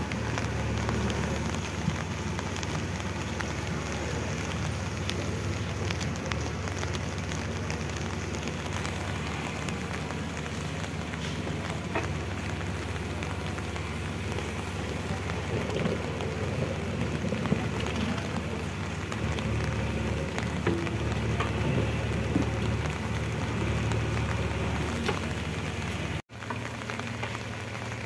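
Steady rain pattering on puddles and mud, with the low, steady running of the diesel engine of a JCB 3DX backhoe loader underneath as its backhoe digs. The sound drops out for an instant near the end and then resumes.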